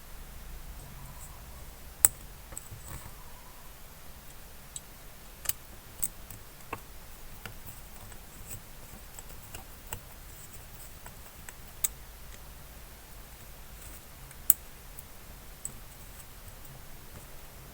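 Small hard parts of a diecast model car being handled, giving sparse, sharp clicks and taps every second or two over a faint low hum.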